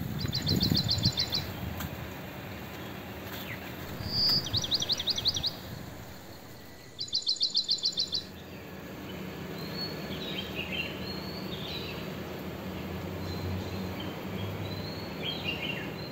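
Songbird singing: three bursts of rapid, evenly repeated high notes, each lasting about a second, followed by scattered short chirps. There is a steady outdoor background noise throughout.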